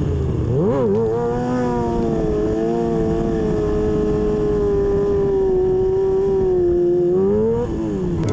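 Sport motorcycle engine held at steady high revs for several seconds, dipping and picking back up about a second in, then rising and falling off near the end.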